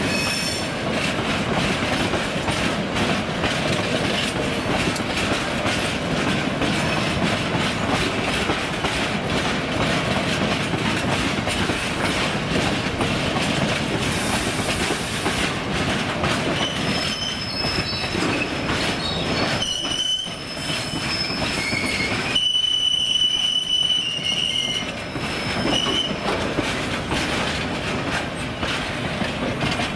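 A train rolling along the track, its wheels clicking steadily over the rail joints. From a little past the middle, a high squeal from the wheels or brakes comes and goes for several seconds.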